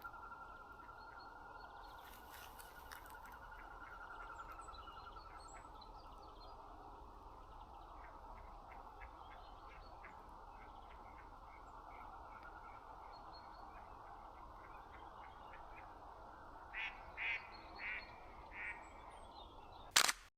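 Wild birds calling outdoors: faint scattered chirps over a steady background hush, then four short, louder calls in a row near the end. A single sharp click comes just before the end.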